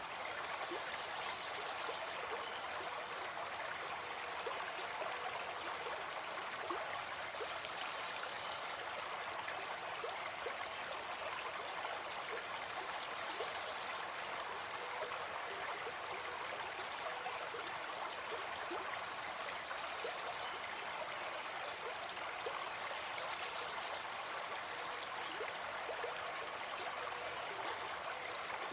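Gentle forest stream flowing steadily.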